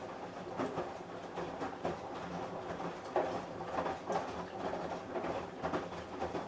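Samsung Eco Bubble washing machine running a wash, with an irregular patter of laundry tumbling as the drum turns.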